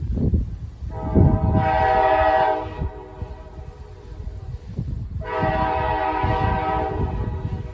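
Train horn sounding two long blasts about four seconds apart, each a steady chord of several tones lasting about two seconds, over a continuous low rumble.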